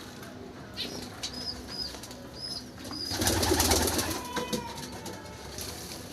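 Small birds giving a series of short, high, arched chirp notes, about six in the first half. About three seconds in comes a loud rustling burst lasting about a second.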